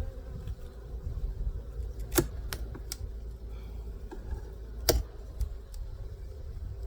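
Sharp clicks and knocks of wooden beehive parts being handled and pried during a hive inspection, two louder knocks about two and five seconds in, over a faint steady hum.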